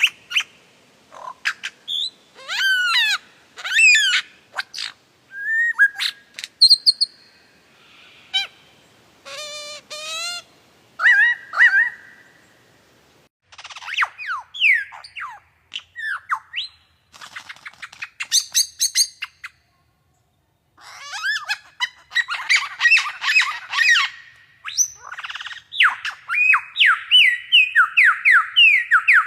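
Birds calling and singing: a varied run of chirps, whistled glides and squawky calls, breaking off briefly twice, then a fast series of repeated falling notes near the end.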